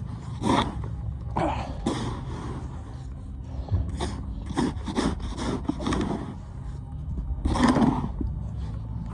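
Snow shovel scraping and scooping through deep snow in irregular strokes, about a dozen in nine seconds, the loudest near the end, over a steady low rumble.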